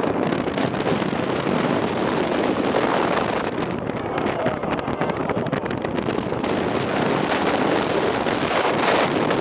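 Wind rushing hard over the microphone on a moving roller coaster, with the Steel Vengeance hybrid coaster's train rattling and rumbling along its track.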